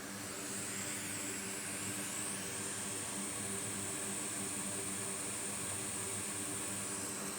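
Hot air rework station blowing steadily over the board, with a high whine that wavers for the first couple of seconds and then holds steady.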